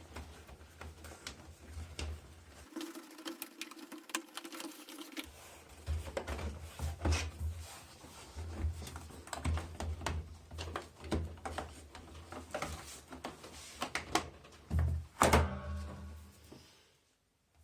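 Clicks and knocks of washing machine parts and tools being handled and fitted during reassembly, with a louder knock about three-quarters of the way in and a low hum coming and going underneath.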